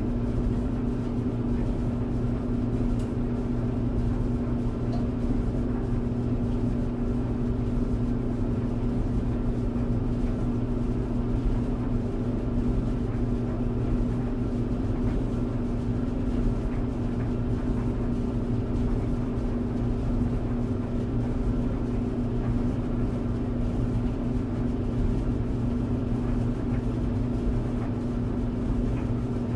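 Clothes tumble dryer running steadily: a constant motor hum with a low noisy rumble, unchanging throughout.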